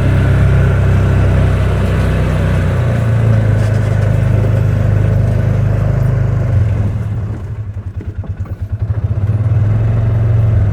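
A vehicle's engine running as it drives along, its pitch stepping down twice. Past halfway the sound pulses unevenly, then steadies again near the end.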